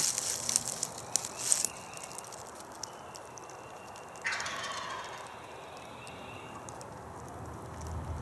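A wild turkey gobbles once, about four seconds in, a short rattling call that fades quickly. Before it come a few sharp crackles and rustles, which are the loudest sounds here.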